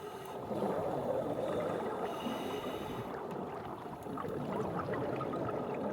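Muffled underwater ambience: a steady wash of water noise with faint gurgling.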